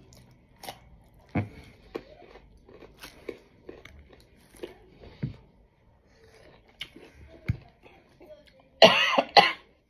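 Close-up chewing and mouth sounds: small, irregular wet clicks and smacks while food is eaten. Near the end, two loud coughs in quick succession.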